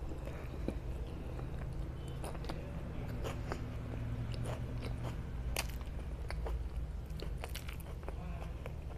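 Close-miked chewing of pav bhaji, soft bread rolls soaked in vegetable curry: wet mouth sounds with many short, sharp clicks scattered through, over a steady low hum.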